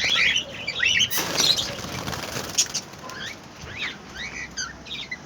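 Young budgerigars chirping in short rapid calls, with a burst of wing flapping about a second in.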